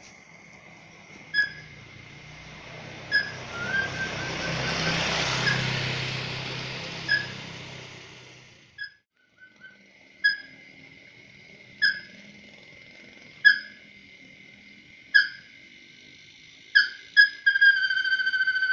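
Tikusan crake lure call: short, sharp whistled notes repeating about every one and a half seconds, with a longer held note near the end, over a steady high insect-like drone. A rushing hiss swells and fades in the first half.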